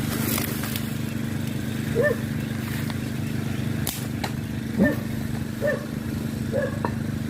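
A steady low motor-like hum, with a few short chirping calls and a couple of sharp clicks.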